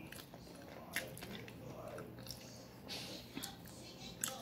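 Close-up eating sounds: chewing and soft mouth noises as food is eaten with the fingers, with a few short sharp clicks of lips and fingers.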